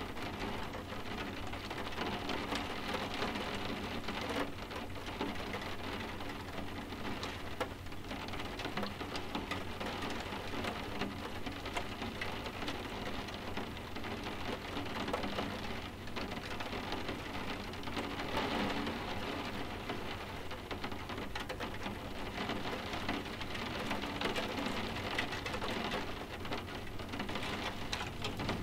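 Steady rain, with many small drops tapping on window glass in a dense, even patter that swells gently now and then.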